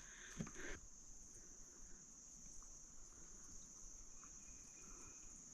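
Faint, steady high-pitched insect chorus in woodland, over near silence, with a couple of soft knocks about half a second in.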